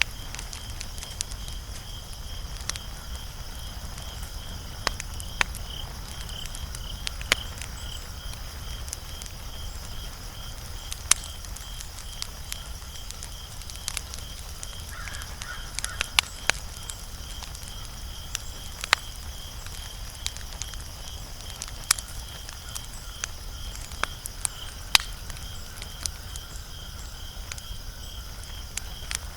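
Wood fire crackling, with sharp, irregular pops scattered through it, some louder than others. Behind it runs a steady, evenly pulsed high chirping.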